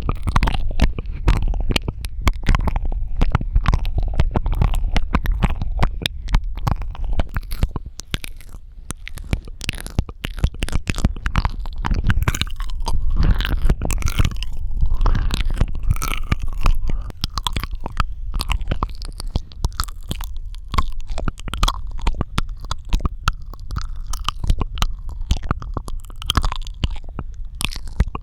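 Close-miked ASMR mouth sounds: a dense, continuous run of wet clicks, smacks and tongue pops, with a low rumble from the microphone underneath.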